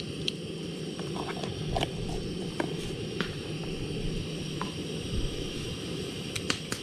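Camp stove burner running steadily under a pot of lake water being heated toward a boil, with a few faint light clicks.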